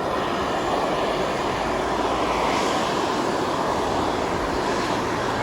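Steady rushing roar of steam and boiling water venting from Steamboat Geyser.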